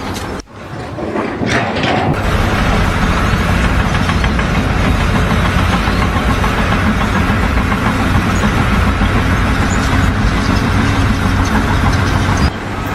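A heavy vehicle engine comes up about a second in and runs steadily, then cuts off sharply near the end.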